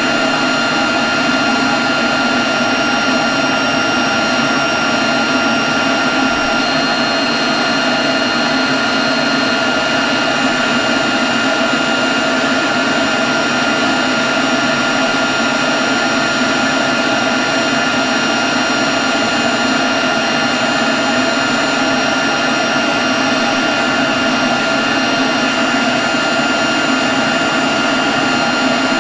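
Leaf blower running steadily at constant speed: a loud rush of air with a steady high whine over it.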